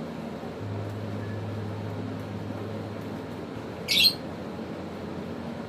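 African lovebird giving one short, shrill squawk about four seconds in, over steady background noise with a low hum that stops just before the call.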